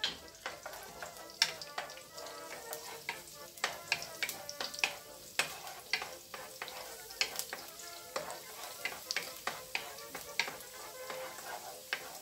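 Chopped garlic sizzling in hot oil in a nonstick wok while a wooden spatula stirs it, scraping and knocking against the pan in many quick, irregular clicks.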